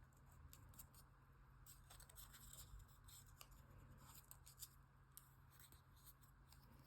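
Faint rustling and light creasing of origami paper being handled, in short scattered bursts over a steady low hum.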